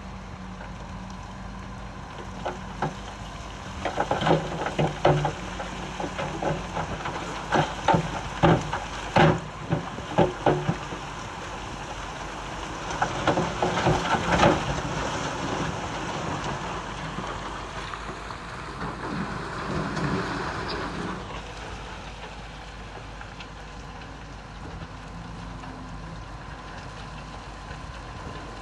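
Diesel engine of heavy earthmoving machinery running steadily, with loose stone clattering in bursts of many hits from about four to eleven seconds in and again around thirteen to fifteen seconds. A rushing hiss rises near eighteen seconds and stops about three seconds later.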